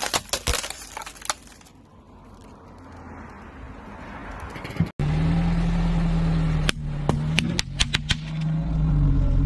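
A cluster of sharp cracks and snaps at the start, then, after an abrupt cut, a car engine running steadily under a series of sharp cracks and snaps as brittle objects are crushed under its tyre.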